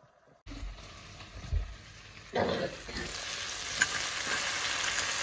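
Chopped vegetables sizzling in a steel kadai as they are stir-fried with a steel spoon. The sizzle starts suddenly about half a second in and grows louder about two seconds in, with one sharp clink of the spoon against the pan near the end.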